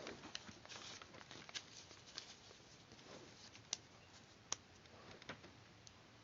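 Faint paper handling at a craft table: soft rustling of paper and a scatter of light clicks, with two sharper clicks a little past the middle.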